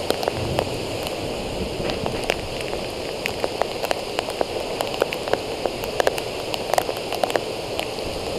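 Heavy rain driven by strong storm winds, a steady rush with many sharp ticks of drops striking close by.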